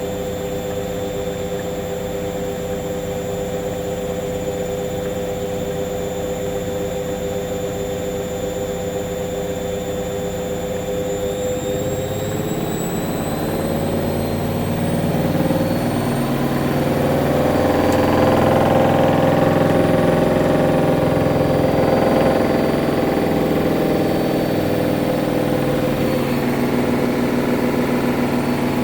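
Hoover washing machine on its final spin, the motor whining steadily. About twelve seconds in, the whine rises as the drum speeds up toward 1400 rpm, and the sound grows louder with an added rumble before settling.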